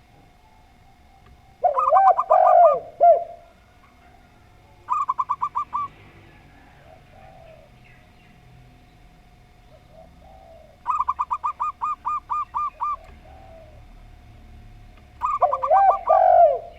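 Zebra dove and spotted dove cooing in turn, in four bouts. Two are rapid strings of short, clipped coos; the other two, about two seconds in and near the end, are fuller calls with a lower, warbling part.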